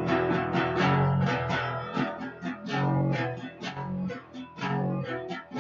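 Guitar in drop D tuning playing a fast repeating riff of picked notes on the low strings, several notes a second.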